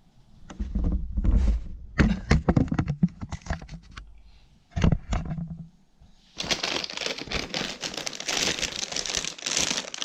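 A delivery parcel being handled and torn open: scattered knocks and crackles at first, then from about six seconds in continuous crinkling of the packaging.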